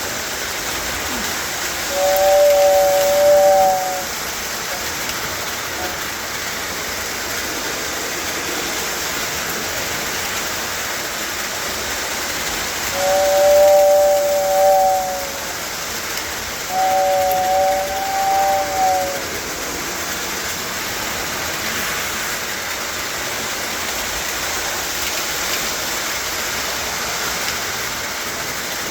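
A train horn sounds a two-note chord three times, each blast about two seconds long: once about two seconds in, then twice close together past the middle. A steady rushing hiss continues throughout.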